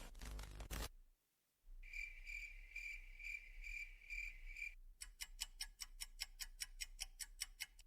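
Two short sound effects in a row: first a repeating high-pitched chirp, about two a second, then about a second later a fast run of sharp ticking clicks, about seven a second.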